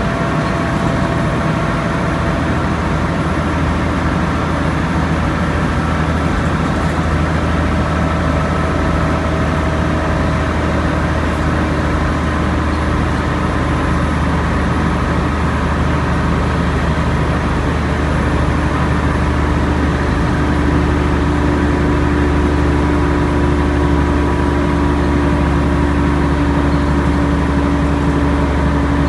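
Alexander Dennis Trident Enviro 500 double-deck bus with a ZF automatic gearbox pulling steadily uphill: a deep engine drone under the whining tone that gives the bus its 'airplane sound' nickname. The whine climbs slowly in pitch and the sound grows a little louder in the second half.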